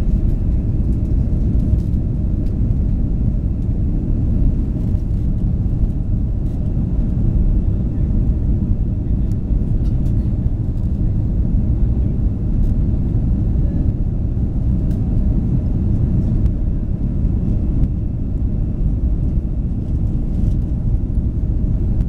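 Steady, loud, low roar of an Airbus A330-200's Rolls-Royce Trent 700 turbofans and rushing airflow, heard inside the passenger cabin from a window seat as the airliner takes off and climbs out.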